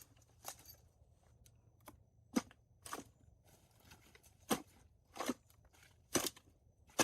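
Palm fronds being cut back with a hand tool: a series of about seven sharp crunching cuts, irregularly spaced about a second apart.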